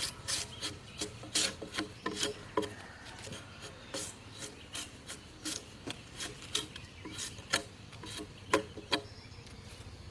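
A hand tool scraping or rasping on wood in quick, irregular strokes, about two to three a second, each a short rasp, with a few louder strokes near the end.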